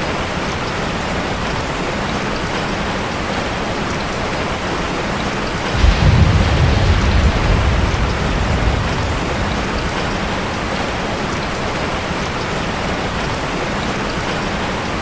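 Steady heavy rain falling, with a low roll of thunder about six seconds in that fades away over a few seconds.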